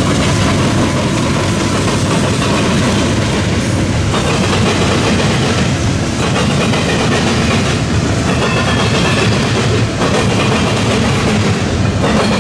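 Freight train passing at close range: a trailing diesel locomotive followed by double-stack container well cars rolling by with a steady, loud rumble of wheels on rail.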